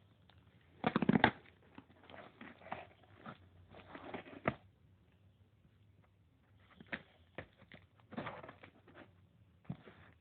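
Earphone packaging being opened by hand: irregular rustling, clicks and crackles of cardboard and plastic, with the loudest handling noise about a second in.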